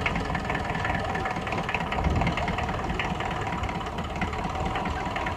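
An engine, most likely a vintage tractor's, idling steadily.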